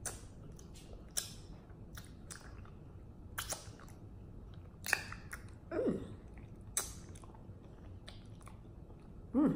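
Mouth sounds of chewing a bite of mochi ice cream: irregular smacks and clicks scattered through.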